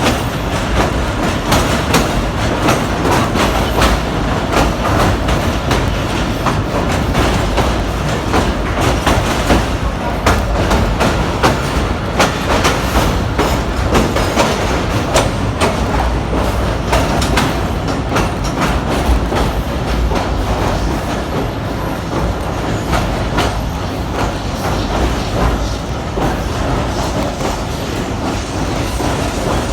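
Train running on rails: a steady rumble with many sharp wheel clicks and clatters throughout.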